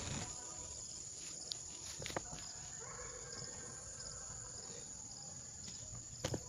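Faint steady high-pitched insect drone, like crickets, with a few light clicks.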